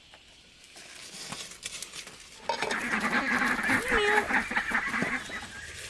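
Flock of domestic fowl calling noisily in a loud clamour of honks and squawks that starts suddenly about halfway through and stops shortly before the end, after a few quiet clicks and rustles.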